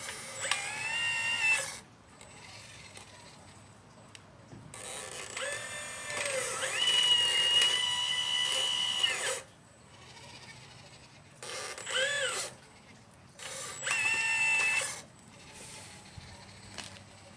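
Electric motors of a 1/12-scale radio-controlled Liebherr 954 excavator whining in four bursts as the machine is worked. The longest burst, in the middle, rises in pitch and then holds steady, and a short one near the end rises and falls.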